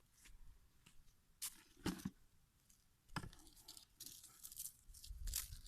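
Beetroots being picked over by hand, their leaves rustling and tearing. A few short, sharp snaps come in the first three seconds, then softer rustling.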